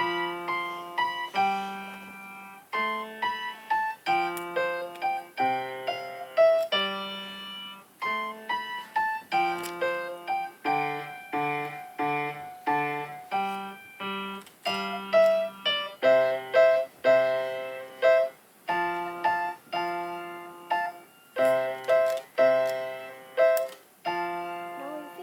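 Keyboard music: a melody in the upper notes over low bass notes and chords, each struck note ringing and fading.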